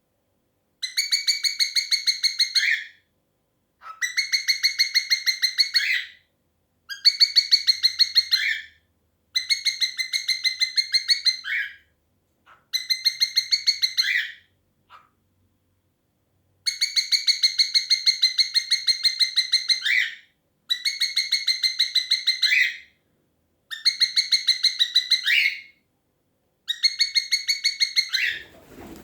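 A cockatiel calling over and over: nine long, rapidly pulsed chirping calls of about two seconds each, separated by short pauses, each ending on a brief rising note.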